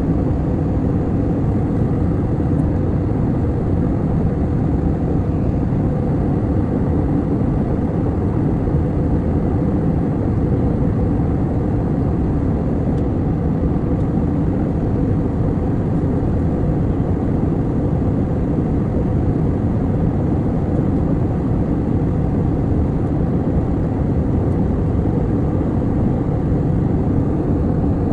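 Airliner cabin noise in flight: a steady low drone and rush from inside the passenger cabin, unchanging throughout.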